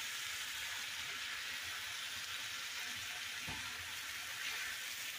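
Diced potatoes and vegetables sizzling steadily and faintly in a skillet turned down to low heat, stirred with a spatula.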